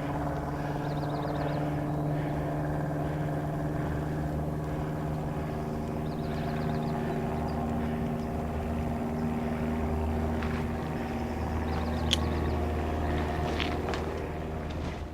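Steady machine drone: a low hum with several even tones above it, holding almost unchanged, with faint light clicks now and then.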